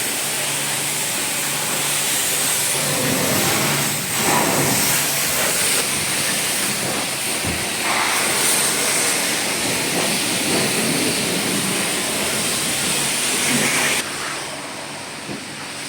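High-pressure washer spraying water onto a vehicle in a steady loud hiss, with a low pump hum beneath; the spray cuts off suddenly near the end.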